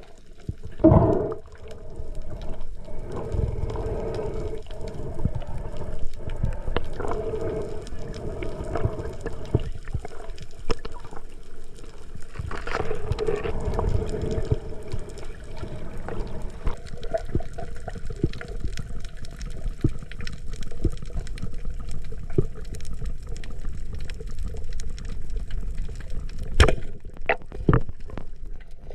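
Underwater sound picked up through a camera housing: muffled water rushing and gurgling with scattered clicks and low rumbles, and a louder surge about a second in.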